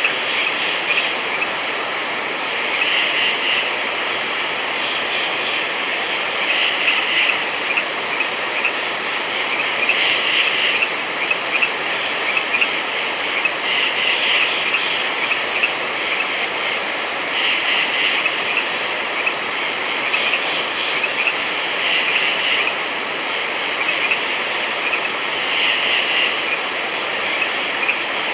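Frogs calling in short, high-pitched trilled bursts that recur every few seconds, over a steady background hiss.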